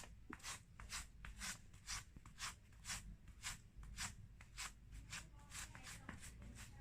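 Folded masking tape dabbed onto and pulled off a carpet's pile over and over, about two faint sticky, scratchy peels a second, lifting cat fur.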